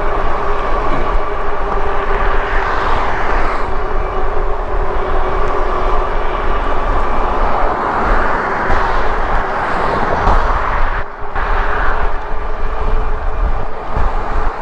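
Wind rushing and buffeting over the microphone while riding an e-bike, with tyre noise and a steady whine underneath. It dips briefly about eleven seconds in.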